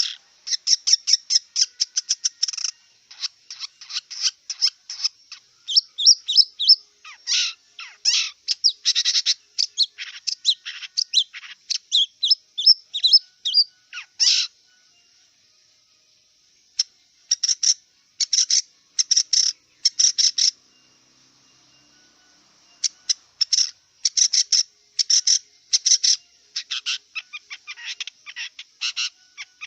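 Long-tailed shrike (cendet) singing: quick runs of short chattering and whistled notes, with pauses of about two seconds near the middle and again about two-thirds of the way through.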